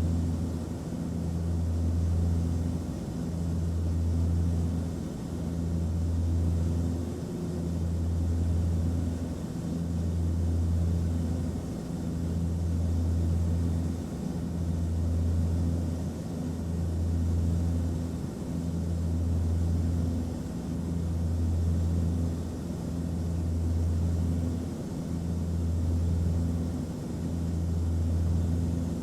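Aircraft cabin noise: a steady low engine hum under a hiss of rushing air, the hum swelling and fading about every two seconds.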